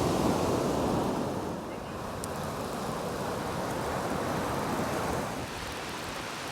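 Wind rushing over the microphone, a steady blustery noise that eases about one and a half seconds in.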